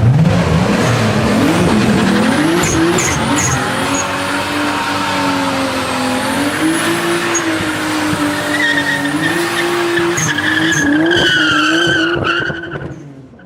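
A tuned car drifting. The engine is held high in the revs, climbing at first and then wavering up and down, over the hiss and squeal of sliding tyres. The sound fades out near the end.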